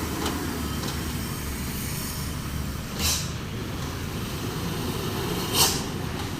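Heavy trucks' diesel engines running in a steady low rumble, with two short hisses of air about three seconds and five and a half seconds in, from truck air brakes.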